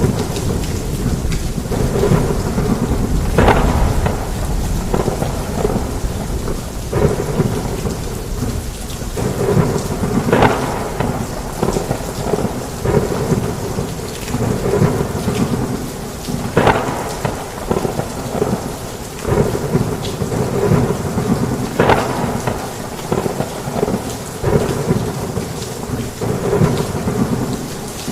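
Heavy rain falling steadily on a roof, with low thunder rumbling underneath, heaviest in the first several seconds.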